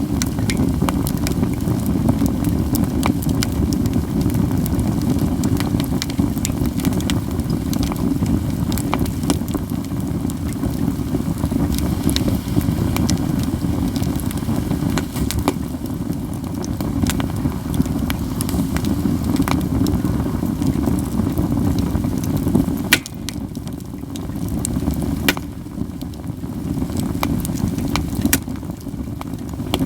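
Katsura wood burning in a campfire, with constant crackling and frequent sharp, snapping pops over a steady low rumble.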